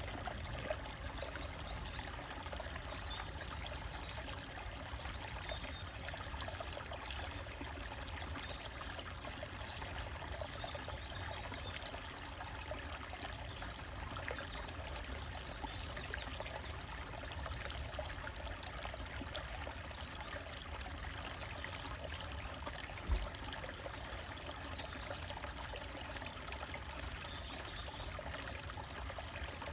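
Small stream trickling and splashing over rocks, a steady water sound, with occasional faint bird chirps in the background. A brief low thump sounds about three-quarters of the way through.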